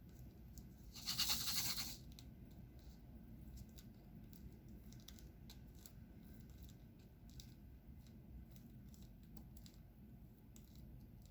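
Diamond painting work: a brief loud rustling scrape about a second in, then scattered faint small clicks as resin drills are picked up and pressed onto the canvas.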